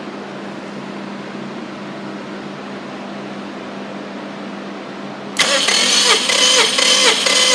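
Subaru EJ-series turbocharged flat-four engine being turned over by its starter motor, starting suddenly about five seconds in with a loud, rhythmic cranking beat. Before that there is only a steady hum.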